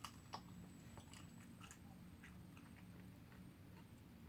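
Near silence: faint, scattered crackles and clicks, a few each second, over a low steady rumble.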